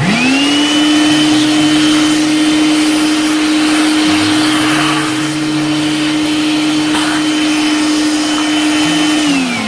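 CNC router spindle spinning up to a steady high whine, running with a rushing noise, then winding down near the end.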